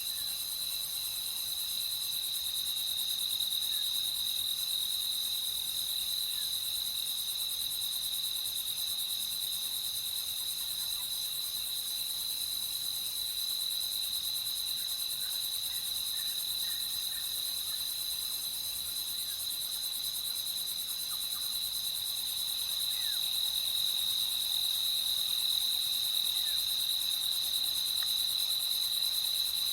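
Crickets trilling in a steady, unbroken, high-pitched chorus, swelling slightly about two-thirds of the way through, with a few faint short calls underneath.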